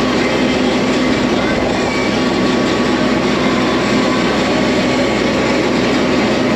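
Resort tram in motion: steady running and road noise with a constant low hum.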